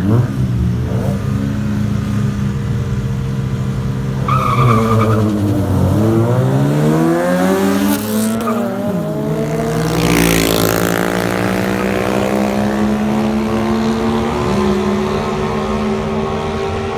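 Car engines, a Toyota Corolla's 4A-GE among them, running and revving: the engine pitch sinks and then climbs several times, with a brief high squeal about four and a half seconds in and a rushing surge around ten seconds in.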